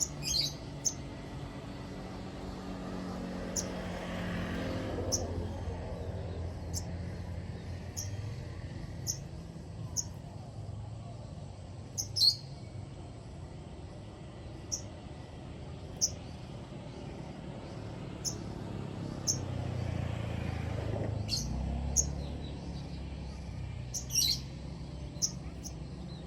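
Sogon bird calling: short, sharp, high chirps repeated every second or two, a few of them louder, over a steady low rumble.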